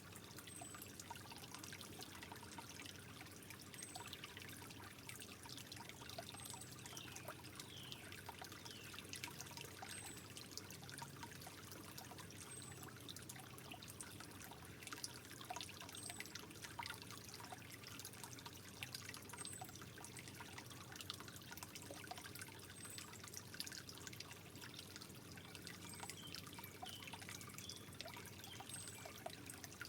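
Water trickling gently and faintly, with many small irregular drips and plinks.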